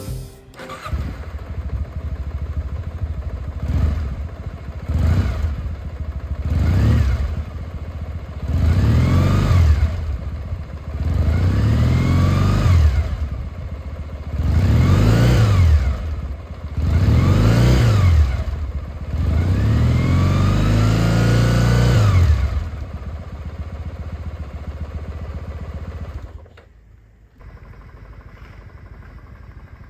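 Kawasaki W650's air-cooled parallel twin breathing through Posh W1 aftermarket mufflers, idling and revved about eight times in a row, each rev rising and falling, the later ones held longer. It settles back to idle, then cuts off abruptly a few seconds before the end, leaving a quieter steady background.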